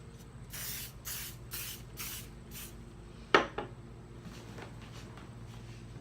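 A spray bottle spritzing a section of hair five times in quick succession, followed by a sharp knock and a smaller one just after.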